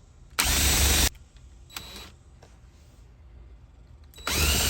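Power drill running in short bursts: a loud run of under a second about half a second in, a brief quieter whir near two seconds, then a longer run with a steady whine starting near the end.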